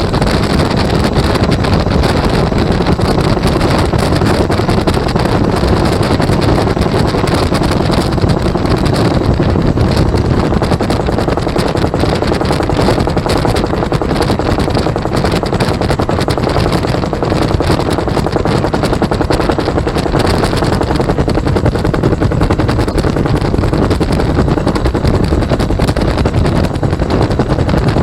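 Bell UH-1 Huey helicopter in flight, heard from inside: the two-blade main rotor beats rapidly over the steady running of its turbine engine.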